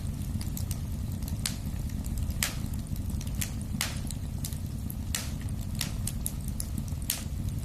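Wood fire in a fireplace crackling, with sharp irregular pops about one or two a second over the steady low rumble of the flames.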